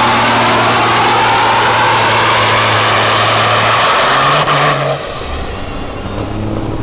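Semi truck's diesel engine at full throttle pulling the weight sled, loud with a high whine over it; about four and a half seconds in there is a sharp click and the throttle is cut, the engine dropping suddenly to a lower, quieter running note as the pull ends.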